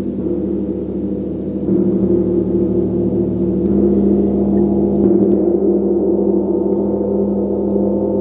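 A gong ringing in a sustained, dense wash of low tones, swelling with fresh strikes about two, four and five seconds in.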